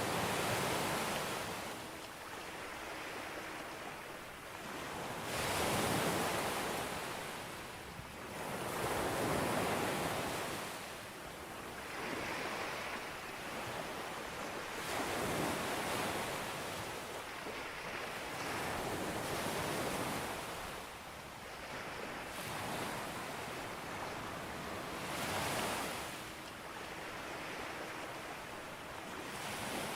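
Sea waves breaking on a beach, the surf swelling and falling back every few seconds in a steady wash.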